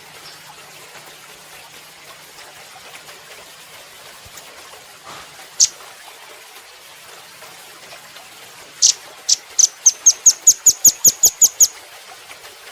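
Velvet-fronted nuthatch calling: one sharp, high note, then a few seconds later a rapid run of about fourteen sharp chips that quicken slightly and stop abruptly, over a steady background hiss.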